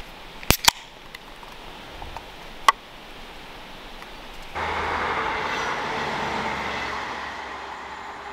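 A few sharp clicks in the first three seconds. Then, about four and a half seconds in, a steady rushing rumble of a train on the nearby railway line comes in abruptly and slowly fades.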